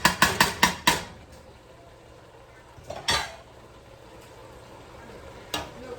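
Metal cookware and utensils clanking: a quick run of about six sharp knocks in the first second, then a single clatter about three seconds in and another knock near the end.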